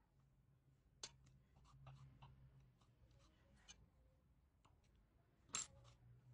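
Near silence with scattered faint clicks and ticks of small objects being handled, one sharper click about five and a half seconds in, over a faint low hum.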